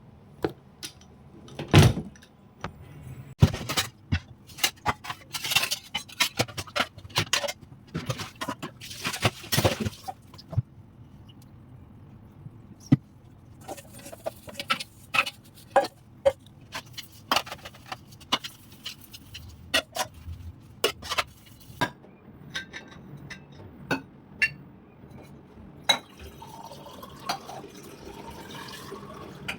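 Household kitchen work: a long irregular string of sharp clinks and knocks of dishes and utensils, with water sounds.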